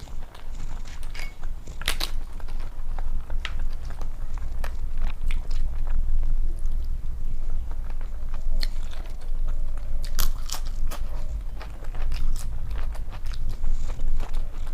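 Close-miked chewing of crisp food, with a run of sharp crunches; the loudest crunches come about two seconds in and again around ten seconds.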